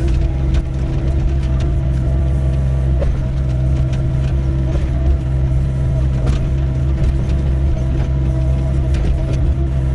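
Doosan 55W wheeled excavator's diesel engine running steadily, with scattered short knocks and scrapes from the bucket working stony ground.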